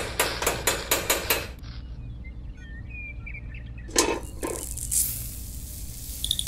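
A small hammer tapping a miniature signal pole into packed dirt, about seven quick taps. About four seconds in comes a clank and a short hissing rush as cement powder is tipped out of a small metal pail onto the ground. Near the end a steady high chirping starts, like crickets.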